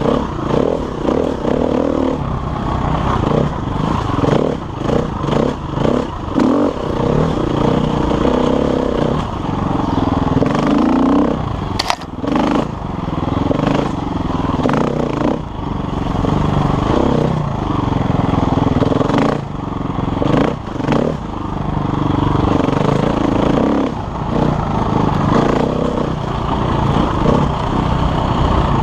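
KTM enduro motorcycle engine running hard as it is ridden, the throttle constantly opening and closing so the pitch keeps rising and falling. There is clatter from the bike and one sharp click about twelve seconds in.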